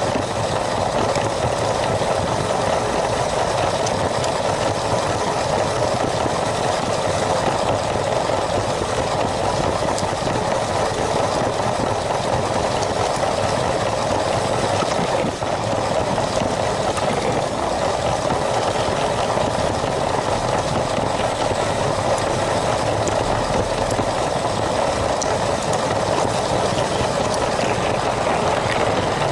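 LEGO train running steadily on its track: a continuous whir from its small electric motor and wheels, with a brief dip about fifteen seconds in.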